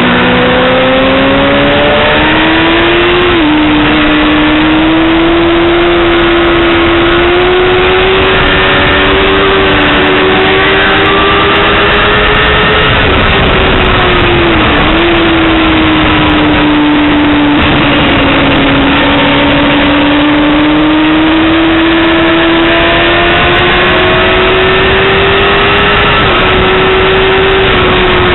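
Yamaha R6 (5EB) 600cc inline-four motorcycle engine at high revs on track, its pitch climbing and dipping with gear changes a few seconds in, about halfway and near the end, then falling away as it comes off the throttle at the very end.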